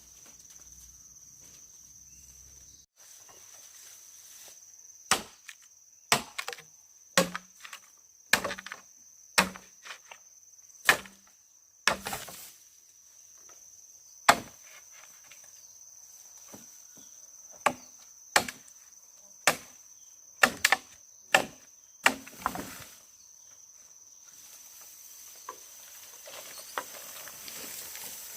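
Irregular chopping blows on wood, about twenty sharp strikes spaced a second or so apart. They begin about five seconds in and stop a few seconds before the end. A steady high insect trill runs behind them.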